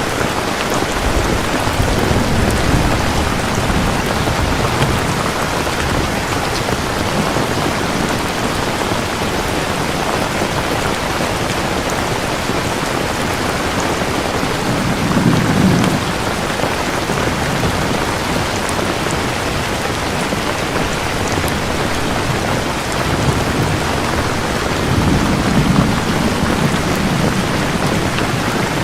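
Steady heavy rain falling, with low rolls of thunder rumbling a few times, loudest about halfway through and again near the end.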